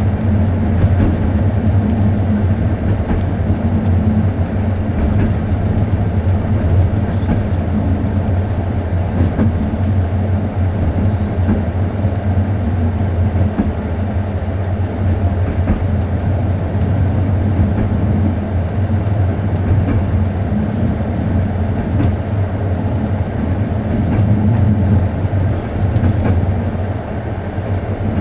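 Steady low rumble of a passenger coach's wheels running along the rails, heard from inside the carriage, with a few faint clicks.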